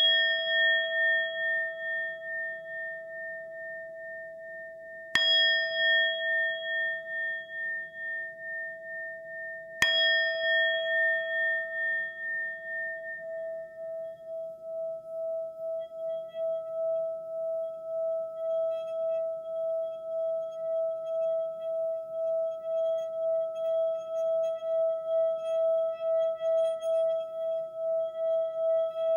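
A singing bowl struck three times, about five seconds apart, each strike ringing on with a wavering tone. From about twelve seconds in, the tone holds on without new strikes, pulsing steadily and slowly swelling.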